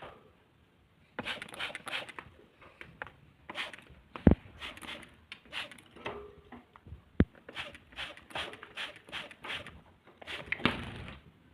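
Budgerigar chattering in runs of short, scratchy chirps, with two sharp knocks, about four and seven seconds in.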